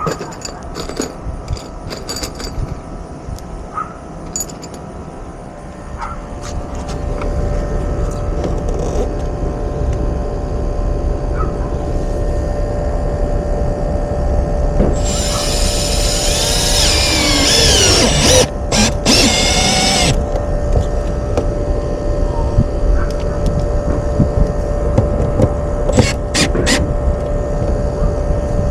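Power drill running in one burst of about five seconds about halfway through, its pitch shifting as it goes, over a steady hum and low rumble, with a few short clicks.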